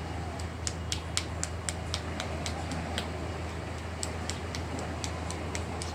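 Boat engine running with a steady low drone, with many irregular sharp ticks over it.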